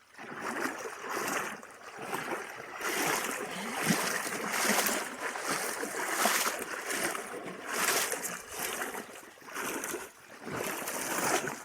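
Water splashing in a series of irregular sloshes, about one a second, over a running creek, like steps wading through shallow water.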